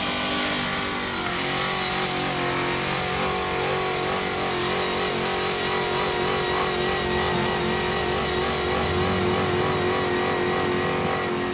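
Off-road truck engine running hard at high revs, its pitch held fairly steady with small rises and dips.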